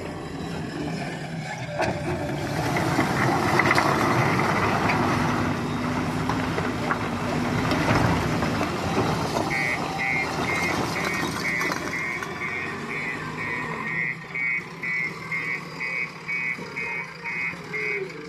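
Diesel engine of a JCB 3DX backhoe loader running under load. About halfway through, its reversing alarm starts beeping, about twice a second.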